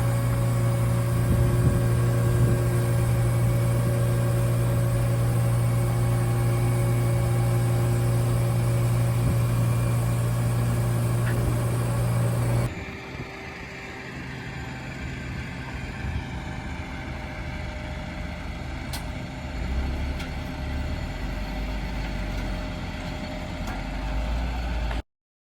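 2021 Isuzu tow truck running with a steady hum while its bed is worked. About halfway the sound drops suddenly to a quieter running sound with slowly shifting tones, then cuts off abruptly near the end.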